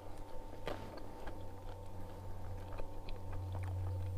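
A man chewing a mouthful of juicy grilled pork sausage: soft, irregular mouth clicks over a steady low hum.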